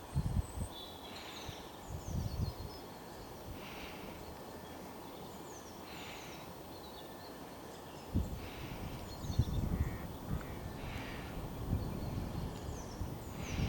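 Small birds chirping repeatedly in short falling notes, over a low rumble of wind on the microphone that gets heavier about two-thirds of the way through.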